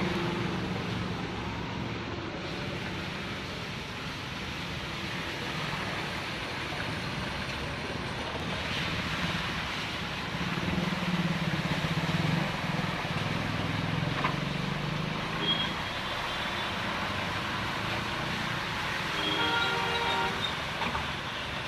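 Road traffic in the rain: a steady hiss with the low hum of passing vehicles swelling in the middle. A short horn toot comes partway through and another horn honks near the end.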